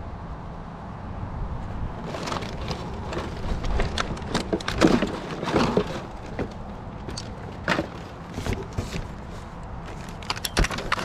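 Scrap and debris being rummaged through and pulled out: irregular knocks, clatters and rustles that start about two seconds in, after a low steady rumble.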